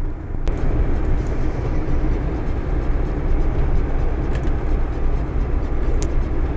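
Steady engine and road noise of a moving vehicle heard from inside the cab, growing louder and hissier about half a second in.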